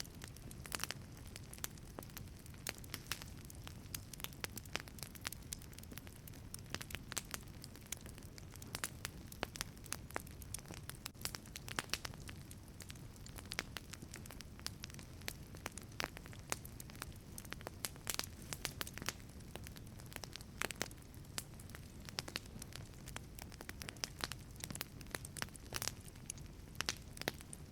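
Wood fire burning in a wood-fired pizza oven, crackling with many irregular sharp pops and snaps over a steady low rumble of the flames.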